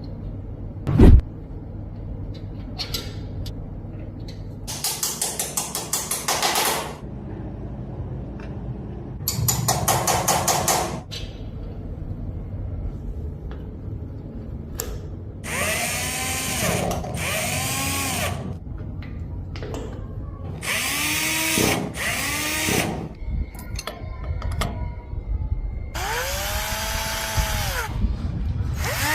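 Power drill run in several short bursts, each spinning up and winding down in pitch. There is a heavy thump about a second in.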